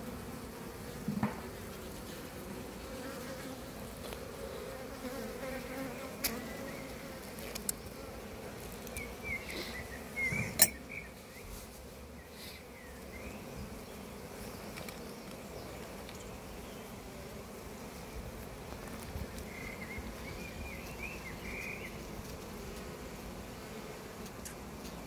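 Honey bees buzzing steadily around an open hive, with a few sharp knocks and clinks from the frames and tools being handled, the loudest about ten seconds in.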